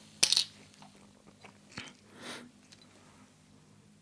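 Close-miked mouth sounds of someone drinking a carbonated soft drink. A sharp wet mouth sound comes about a quarter second in, then a few small clicks, and a short hiss-like breath a little after two seconds.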